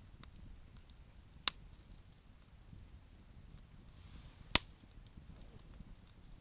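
Wood campfire burning, with scattered faint crackles and two sharp pops from the burning wood, about a second and a half in and again about three seconds later, the second one louder.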